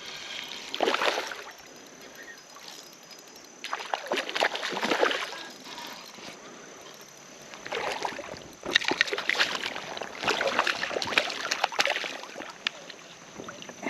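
Creek water splashing and sloshing in several bursts as a hooked smallmouth bass is fought and brought in: once about a second in, again around four to five seconds, then a busier stretch in the second half.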